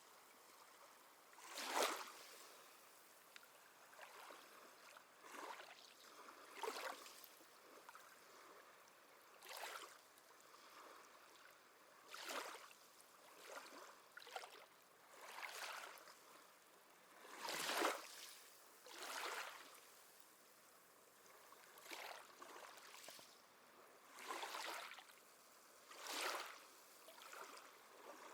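Small sea waves lapping and splashing at the shoreline, a short wash every second or two, rising and falling irregularly.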